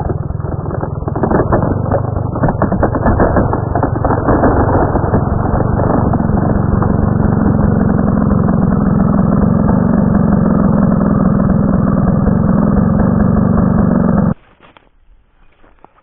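Chainsaw running at high revs, rough and uneven for the first few seconds and then a steady high drone, cutting off suddenly near the end.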